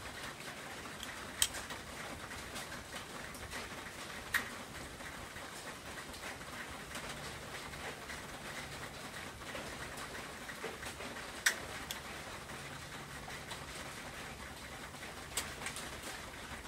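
Battered breadfruit sticks frying in a pan of oil, a steady gentle sizzle, with about four sharp clicks spread through it.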